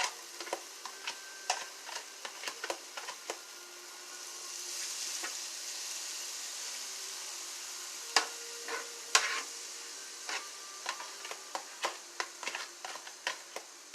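Chopped bell peppers and onions sizzling in olive oil in a pan, stirred with a utensil that clicks and scrapes against the pan. The sizzle swells for a few seconds in the middle.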